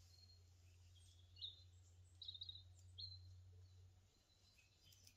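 Faint bird chirps: a single short call about a second and a half in, a quick cluster of notes a little after two seconds, and one more note around three seconds, over a low steady hum that fades out near the end.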